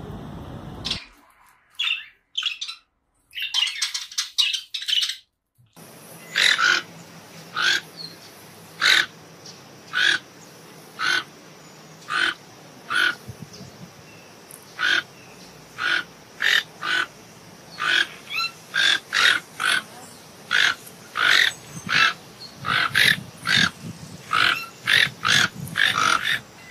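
An aracari, a small toucan, calling: short, sharp squeaky calls repeated about once a second, coming faster, nearly two a second, in the last several seconds.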